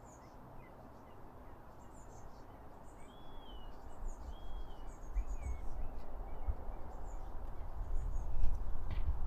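Small songbirds chirping with short, high, thin notes, plus a few brief whistled slurs in the middle. A low, gusty rumble builds from about halfway and becomes the loudest sound near the end.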